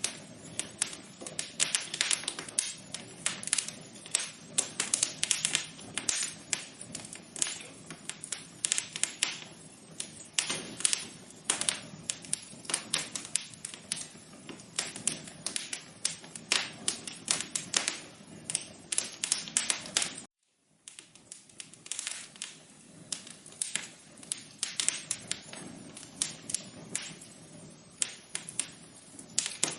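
Wood fire crackling in a fireplace: dense, irregular sharp pops and snaps over a soft hiss. The sound cuts out completely for about half a second roughly two-thirds of the way through, then resumes.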